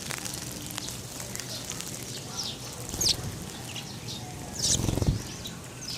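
Small birds chirping in short, high, falling notes, with a louder burst of wing flapping a little before five seconds in, as the birds bathe and get wet.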